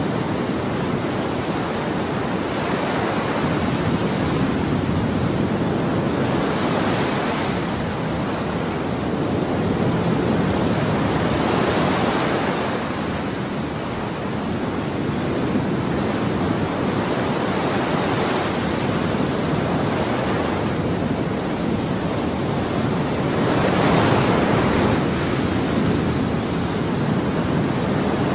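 Ocean waves breaking and washing on a shore in a continuous rush of surf, swelling and easing every few seconds, with a stronger wave about two thirds of the way through.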